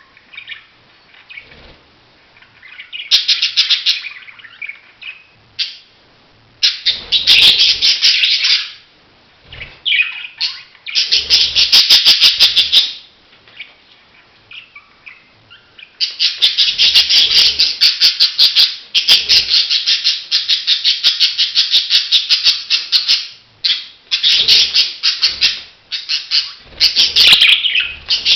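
Budgies chattering and warbling in loud bursts of rapid, scratchy notes, with short pauses between them; the longest burst runs for about seven seconds past the middle.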